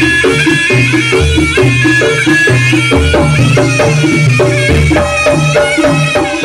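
Live jaranan (kuda lumping) accompaniment music: a traditional Javanese ensemble of drums and struck, pitched metal percussion playing a steady, busy rhythm over repeated low notes.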